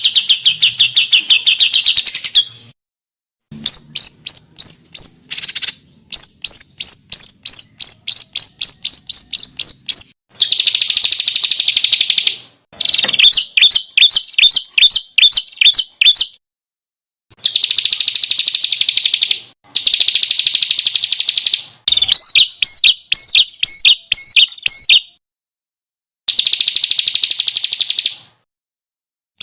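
Songbirds calling in a looped training compilation: bursts of fast, sharp repeated notes and harsh buzzy rattles, each lasting a couple of seconds, cut off by abrupt silent gaps between them.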